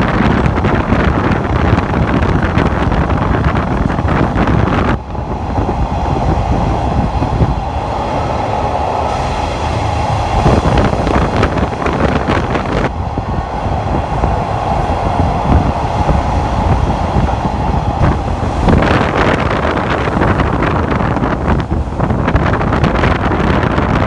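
An open-air trolley car running on the rails, with wind buffeting the microphone. From about five seconds in until near nineteen seconds the wind hiss eases and a steady mid-pitched hum comes through the running noise.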